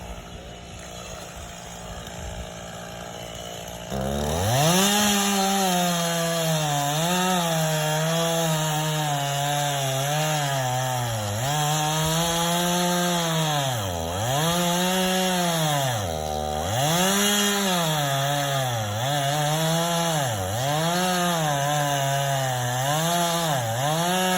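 Chainsaw cutting into a pine trunk. It runs low and steady at first, then is throttled up about four seconds in. After that the engine pitch sags and recovers over and over as the chain bogs in the wood.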